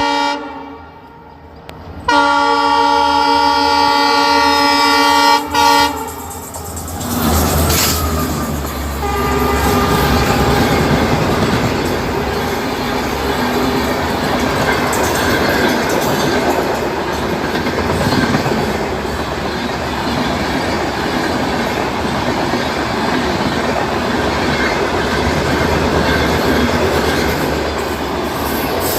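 WAP-7 electric locomotive sounding its horn: a brief blast at the start, then one long, steady blast about two seconds in that holds for some four seconds. From about seven seconds in, the locomotive and its express passenger coaches pass with a steady rumble and clatter of wheels over the rail joints.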